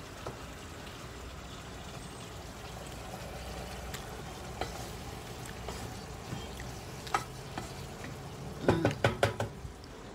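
Beef and onions cooking in a pot on the stove, a steady low sizzle with scattered small clicks. About nine seconds in comes a quick run of loud, sharp knocks and clinks of kitchenware.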